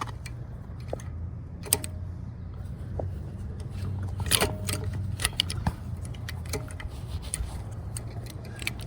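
Light metallic clicks and clinks of small carburetor parts, the choke and throttle linkage and its springs, being handled, over a low steady hum.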